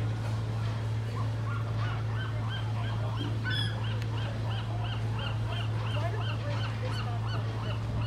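A bird giving a long, even series of repeated calls, about three a second, starting about a second in and stopping near the end, over a steady low hum.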